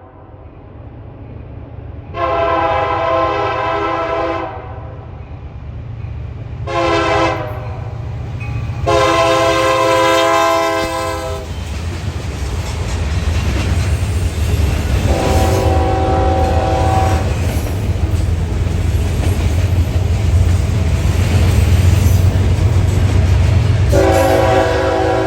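Locomotive air horn sounding several notes at once in five blasts: long, short, long, a fainter long one, and a last blast running on at the end. Under it, the low rumble of the passing train builds through the second half.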